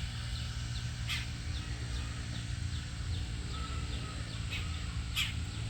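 Small birds chirping outdoors, a run of short, quick downward chirps repeated every few tenths of a second, with two louder, harsher calls, one about a second in and one near the end, over a steady low rumble.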